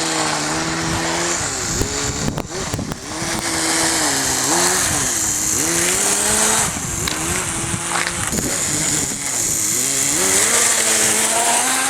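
Small nitro glow engine of a Kyosho Nitro Blizzard RC tracked snow vehicle running, its pitch dropping and climbing again several times as the throttle is eased off and opened.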